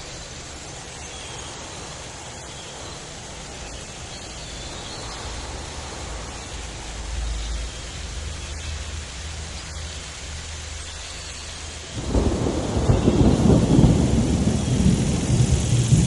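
Outdoor ambience with a steady low rumble and a few faint high chirps. About twelve seconds in, a much louder, uneven deep rumble begins suddenly and keeps going.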